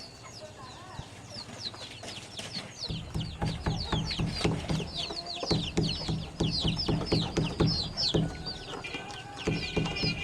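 Chickens clucking amid many quick, high, falling chirps. From about three seconds in, a rapid, regular run of work strokes sounds underneath.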